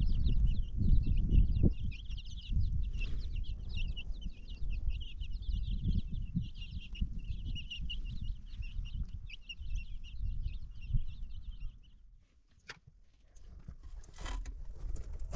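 Many small birds chirping at once, a dense, continuous high chatter that stops abruptly about twelve seconds in, over a low rumble.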